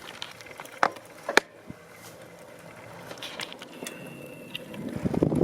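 Bicycle on the move: a few sharp clicks, the loudest about a second in, the clicking that the rider suspects is a worn pedal bearing. A thin steady bird whistle sounds near the end while wind rush on the microphone builds.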